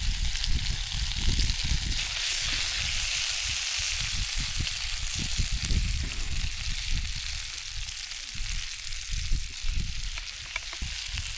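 Food frying in oil in a pan on a Trangia spirit stove: a steady sizzle, strongest in the first half and easing toward the end, over a gusty low rumble.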